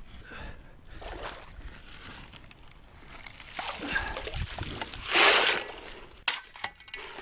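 Shovel digging into a flowing creek bed and lifting wet gravel, with water sloshing and a loud splash about five seconds in, then a few sharp knocks near the end.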